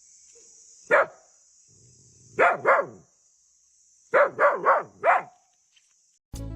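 A dog barking: one bark, then a pair, then a quick run of four. Music comes in near the end.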